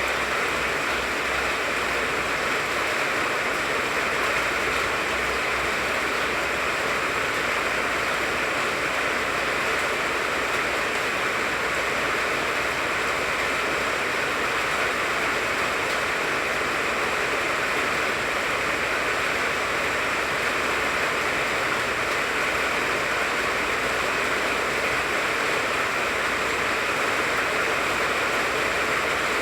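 Steady, even rain falling on a tangerine tree's leaves.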